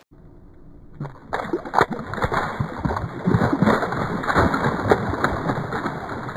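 Creek water splashing and sloshing in many quick, irregular splashes, growing louder about a second in.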